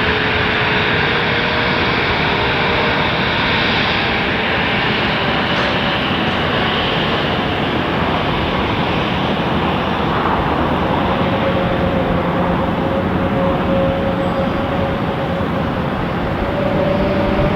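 Airbus A330-300 jet engines running: a loud, steady rushing noise with faint whine tones underneath that shift slightly in pitch.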